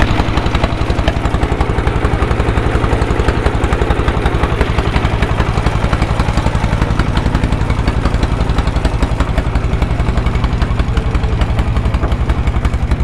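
Motorboat engine running steadily, with a fast, even chugging pulse.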